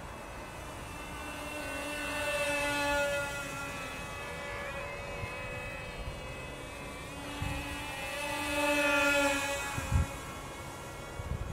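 Brushed electric motors and propellers of an XK X420 RC VTOL airplane whining in flight at a steady pitch, swelling louder twice and fading back. A few low thumps near the end, the loudest about ten seconds in.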